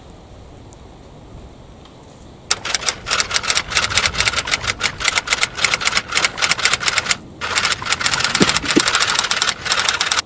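KA Argo Semeru express train passing at speed, its wheels clacking over the rails in a fast, even rhythm of about five or six clacks a second. The clatter starts suddenly a couple of seconds in, drops out briefly, resumes and cuts off abruptly near the end.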